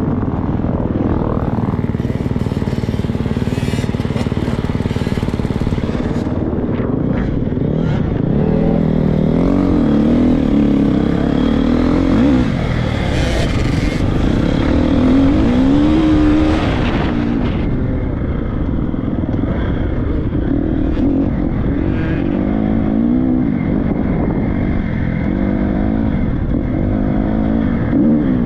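Triumph 250 motocross bike's four-stroke single-cylinder engine being ridden hard, its pitch climbing and dropping over and over as the throttle is opened and shut, with rough clattering noise underneath.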